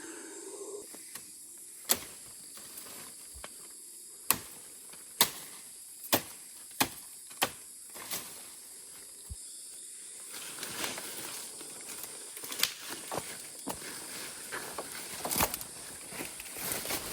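Rainforest ambience: a steady, high-pitched insect buzz throughout, with about seven sharp snaps or clicks in the first half. In the second half come the crunch and rustle of footsteps through leaf litter.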